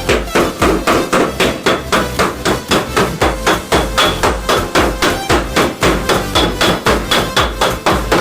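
Rapid, even hammering on the car's sheet-metal body panel, about five blows a second, with a faint metallic ring.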